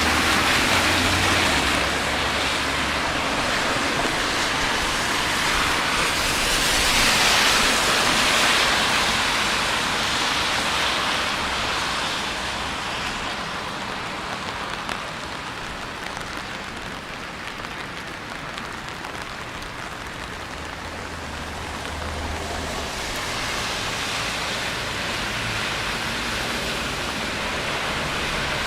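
Steady hiss of rain on a city street, mixed with the swish of vehicles passing on the wet road. It swells loudest about seven seconds in, eases off through the middle and builds again near the end.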